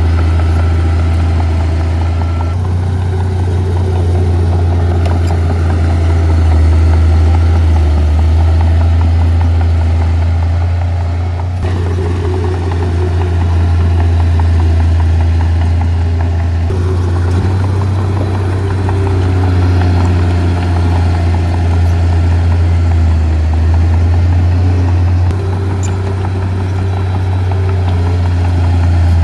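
Heavy earth-moving equipment's diesel engines running steadily under a deep, constant low hum. The sound jumps abruptly four times, where separate clips are joined.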